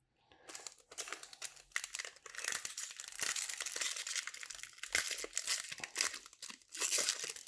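Plastic-foil wrapper of a baseball-card pack crinkling and tearing as it is opened and handled. The dense crackling starts about half a second in and carries on.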